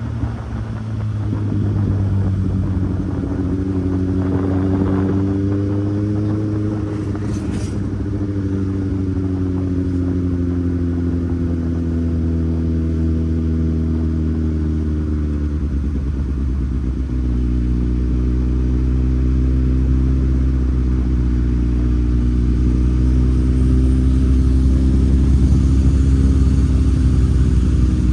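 Kawasaki Z800's inline-four engine running on the move. Its pitch climbs a few seconds in, eases off, dips again around the middle, then holds steady with the throttle.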